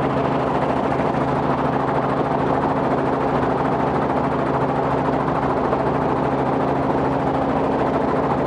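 Robinson R44 helicopter's piston engine and rotor running steadily at power, with an even, unchanging drone.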